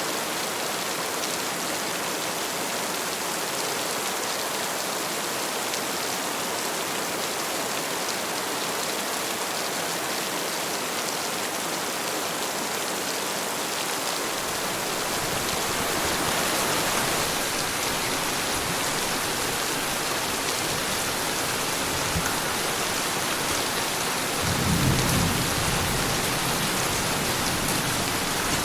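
Heavy rain falling steadily in a thunderstorm. About halfway through a low rumble of thunder comes in, and near the end a louder thunder rumble swells and fades.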